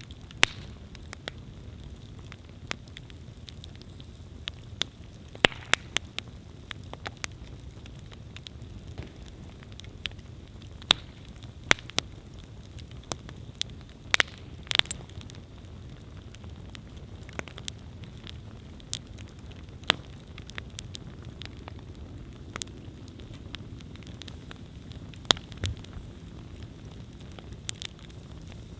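Wood campfire burning: a steady low rumble of flames under irregular crackles and sharp pops from the burning wood.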